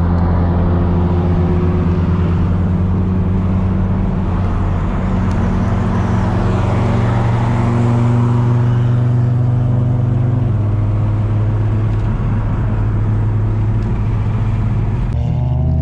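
Nissan Skyline R33's turbocharged RB25DET straight-six cruising at steady revs, heard from inside the car, with a steady exhaust drone. The engine note steps down slightly about ten seconds in.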